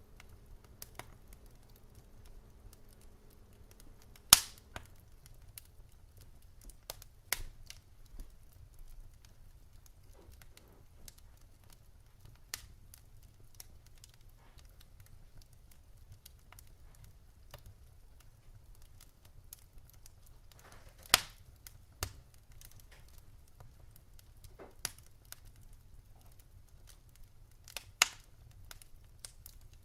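Wood fire burning in a fireplace, crackling softly over a low rumble with sharp pops scattered through it. The loudest pops come about four seconds in and twice near the end. A faint low hum stops about five seconds in.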